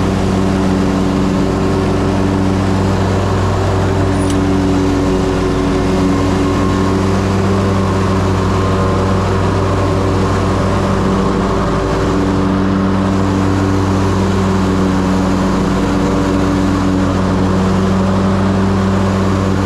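Ferris Z3X zero-turn mower's 37 hp engine running steadily at a constant speed.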